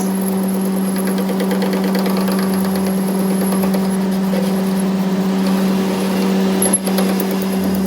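A workshop machine running with a steady hum, with a brief break about seven seconds in.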